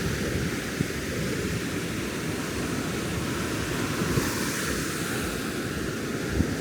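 Ocean surf breaking on a sandy beach: a steady low rumble, with a hissing wash that swells about four seconds in. Wind buffets the microphone.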